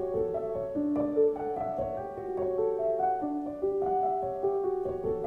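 Piano music: a gentle melody of overlapping held notes over a steady accompaniment.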